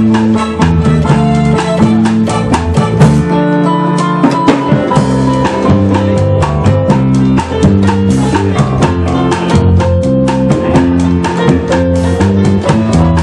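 A band playing an instrumental passage: a steady beat on a drum kit under guitar and sustained bass and chord notes, with no singing.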